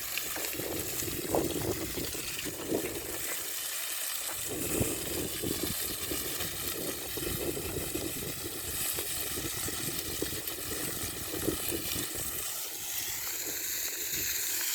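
Wind from a passing dust devil (whirlwind) rushing across the microphone: a steady noise with irregular low buffeting rumbles.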